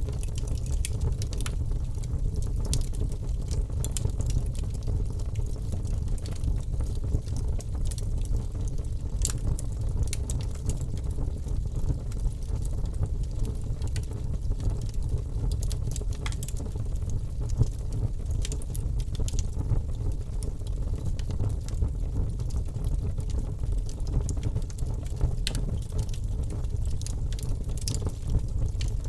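Wood fire crackling in a fireplace: a steady low rumble of burning with scattered sharp snaps and pops throughout.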